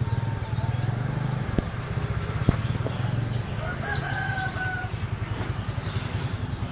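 A rooster crows once, a held call of about a second starting a little past halfway, over a steady low hum. A few short high bird chirps come and go.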